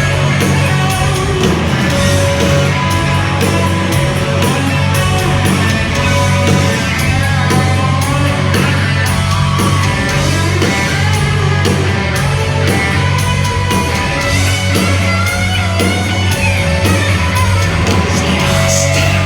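Hard rock band playing loudly live: distorted electric guitars, heavy bass and a steady drum beat, with a singer's voice over the top.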